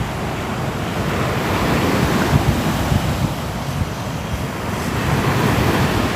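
Ocean surf: waves washing in with a steady rushing sound that swells about two to three seconds in and again near the end.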